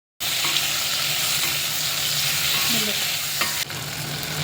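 Marinated fish pieces frying in hot oil with garlic and curry leaves: a steady, loud sizzle that cuts in suddenly and drops a little about three and a half seconds in.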